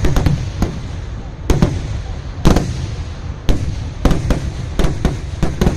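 Festival fireworks (vedikkettu) going off: a rapid, irregular run of loud, sharp bangs, several a second at times, over a continuous low rumble of further explosions.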